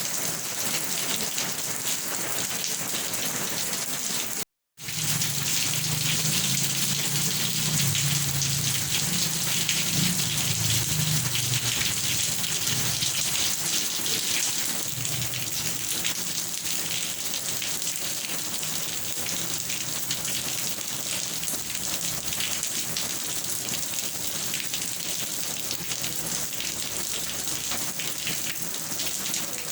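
Steady heavy rain hissing and pattering on surfaces. The sound cuts out completely for a moment about four and a half seconds in, then comes back with a low rumble underneath that fades over the next several seconds.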